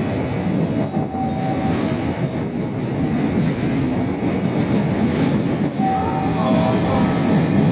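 Container flatcars of a freight train rolling past close by: a steady rumble of wheels on rail, with short faint squeals about a second in and again around six seconds.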